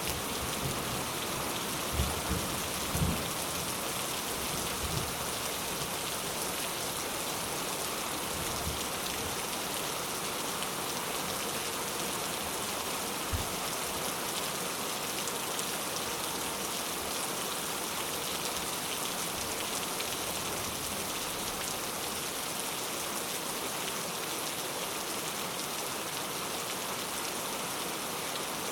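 Steady rain falling on surfaces, an even hiss throughout. A few brief low thuds come about two to three seconds in and once more near the middle.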